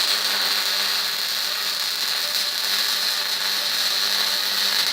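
MIG welding arc running steadily for about five seconds, then stopping suddenly near the end. The torch is held about 3 centimeters from the work, a wire stick-out too long for a good weld.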